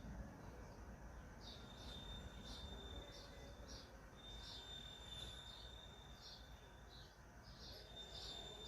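Small birds calling faintly in short high chirps, about two a second. A thin, steady high whine drops in and out behind them.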